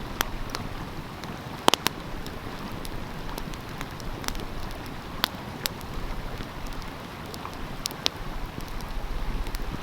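Wood fire crackling with scattered sharp pops over the steady rush of a flowing stream. The loudest pops come a little under two seconds in.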